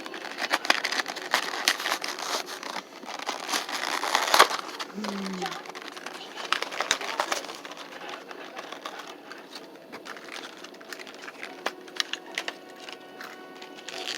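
Crinkling and crackling of toy packaging being handled and opened: a cardboard and plastic blister pack holding a die-cast car, with dense rustles and clicks for the first few seconds, then lighter handling.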